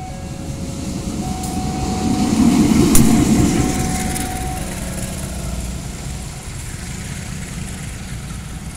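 Diesel train passing close by at a level crossing: the locomotive's engine swells to its loudest about three seconds in, with a sharp clack at the peak, then the rumble of the train settles and slowly fades.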